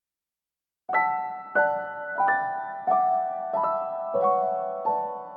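Background piano music: soft chords struck about every two-thirds of a second, starting about a second in.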